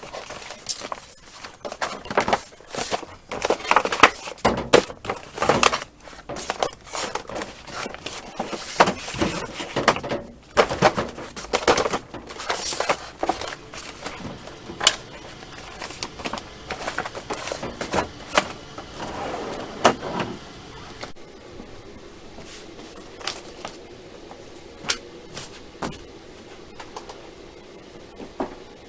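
Handling noise: irregular clicks, taps and rustling, busy for about twenty seconds and then thinning to only occasional clicks.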